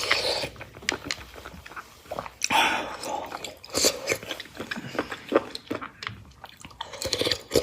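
A person chewing and biting food from Buddha Jumps Over the Wall soup, close to the microphone: a run of irregular mouth clicks and smacks with a few short noisy bursts.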